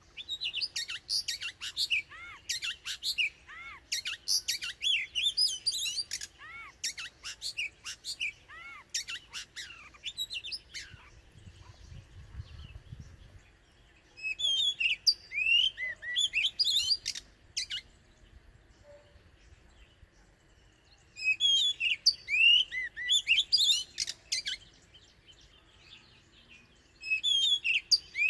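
Oriental magpie-robin singing: bursts of varied, quick whistles and chirps, broken by pauses of a few seconds.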